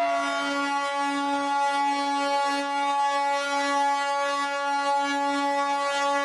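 Indian train horn sounding one long, steady note, with a higher note dying away in the first half second.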